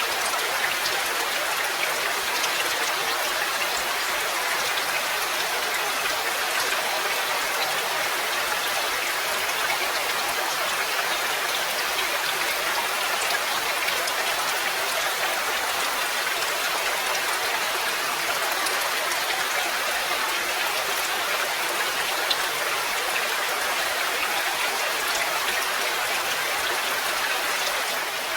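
Steady rain: an even, unbroken hiss with scattered individual drops ticking through it.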